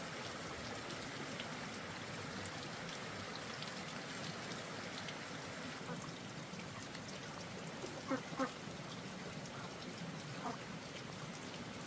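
Steady hiss of falling water, like rain or a running shower, with a few short calls about eight seconds in and again near the end.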